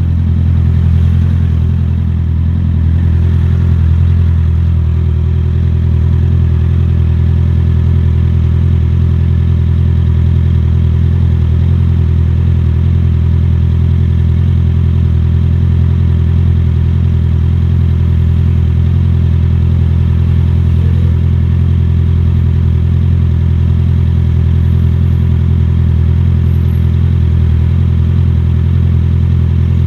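Motorcycle engine running at a steady, unchanging speed, a deep even drone with barely any change in pitch apart from a slight shift in the first few seconds.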